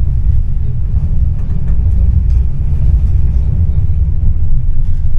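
Tram running, heard from inside the car: a steady low rumble from the wheels and running gear, with a few faint clicks.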